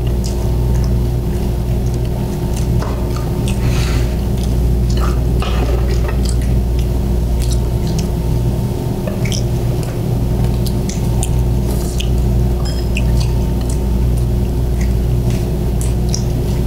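Close-miked chewing and wet mouth sounds of people eating sushi, with many small clicks of chopsticks against dishes, over a steady low hum.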